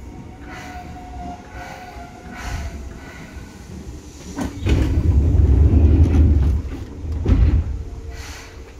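Running noise of a Seibu 2000 series electric commuter train: a steady rumble of wheels on rail that swells into a loud, heavy rumble for about three seconds midway, with sharp knocks as it starts and ends.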